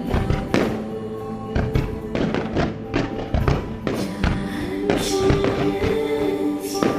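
Music for a fireworks display with repeated firework booms over it, coming irregularly, several in quick succession at times.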